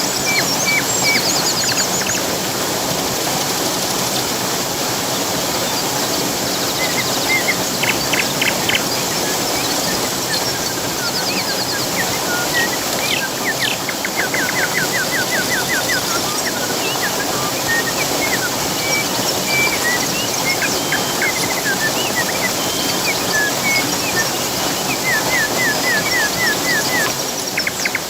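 Steady rush of a waterfall with birds chirping over it, including a few fast trills of evenly repeated notes.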